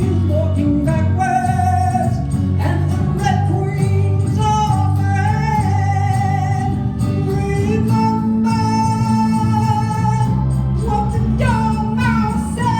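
Live rock band with electric guitar and bass playing under a woman singing, her voice sliding between notes and then holding one long note for several seconds in the second half.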